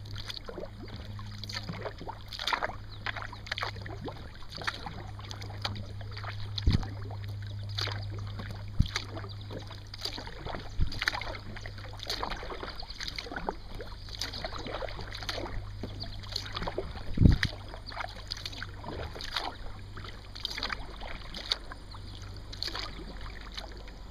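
Kayak paddle strokes: the blades dipping and dripping in the water in a steady run, over a constant low hum. Two hollow knocks, the louder about two-thirds of the way through, as the paddle bumps the kayak.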